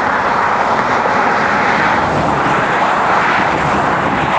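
Steady rushing wind noise on a phone microphone held at an open car window, mixed with the rumble of the vehicle.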